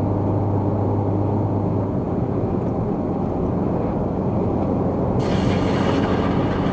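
Car engine and tyre noise from the cabin of a moving car, a steady low rumble; a low hum fades about two seconds in, and a brighter hiss comes in suddenly about five seconds in.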